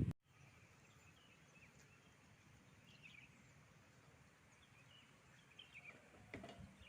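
Near silence: faint outdoor background with a few short, high bird chirps scattered through, and a soft knock near the end.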